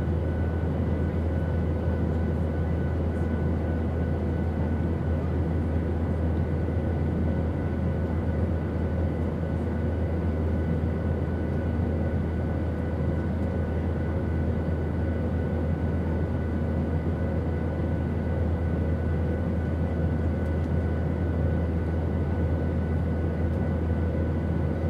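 Steady, unchanging drone of an airplane in flight: a deep rumble with a few faint steady tones above it.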